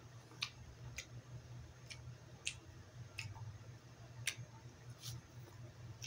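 Faint wet mouth clicks and smacks from chewing sushi, about eight short clicks at uneven spacing, over a steady low hum.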